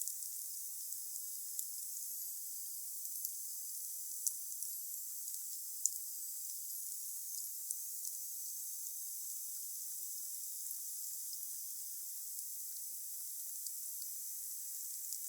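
Wood bonfire burning: a steady high hiss with scattered sharp crackles and pops, the loudest about four and six seconds in.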